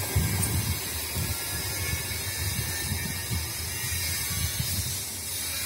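Electric multiple-unit commuter train running away down the track: a low rumble with uneven clatter of wheels over rail joints over a steady hiss, easing off slightly as it recedes.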